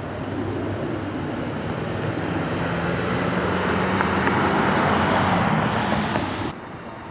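A motor vehicle passing close by: a low engine hum and tyre noise grow louder over several seconds, then cut off suddenly about six and a half seconds in.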